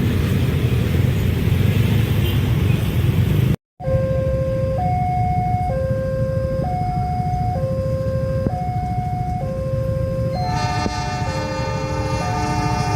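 Railway level-crossing warning alarm: an electronic signal alternating between a lower and a higher note, each held about a second. About ten seconds in, a second, richer two-tone alarm joins it out of step. A steady low rumble runs underneath, and the first few seconds are only that rumble before a brief cut.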